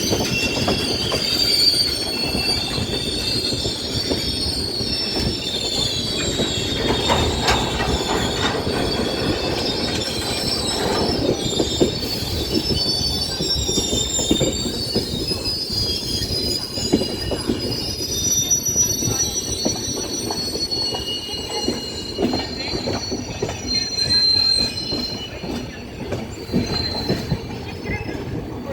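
Train moving at low speed, its steel wheels squealing high-pitched on the rails over a steady rumble, with irregular clacks over rail joints.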